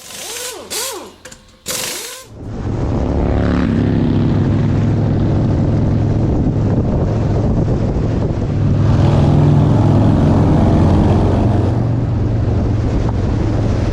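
A few short noises, then from about two seconds in a motorcycle engine running, its pitch climbing as it pulls away. It then holds a steady drone that gets a little louder about nine seconds in.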